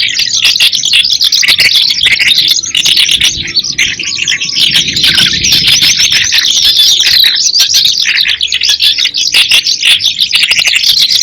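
Eurasian skylark singing: a continuous, rapid stream of high warbles and trills that never pauses.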